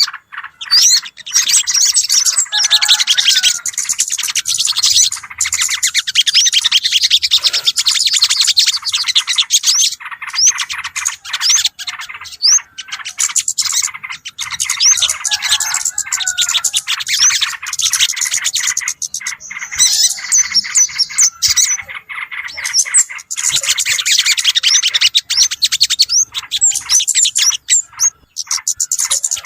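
Bird-lure recording of many small birds chattering together: dense, rapid chirps and short sweeping notes in near-continuous runs, broken by a few brief pauses.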